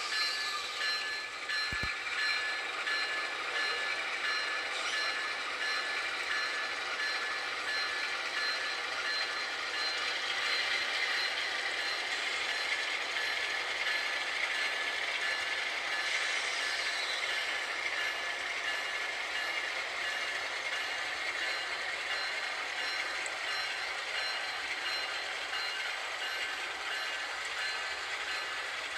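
A train running on the rails, a steady rumbling noise with a thin, steady high-pitched whine.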